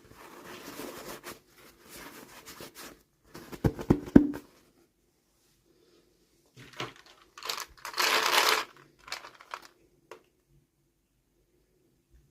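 Toy packaging being handled and opened by hand: rustling and crinkling, a quick cluster of hard knocks about four seconds in, then a louder crinkling tear around eight seconds, followed by a few light clicks.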